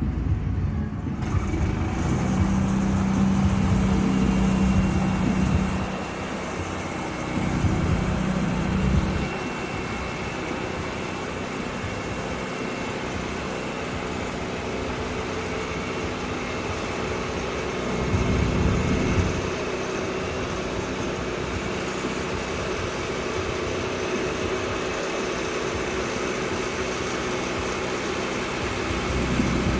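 Sawmill engine running steadily, with a louder low hum for several seconds near the start and again briefly about two-thirds of the way through.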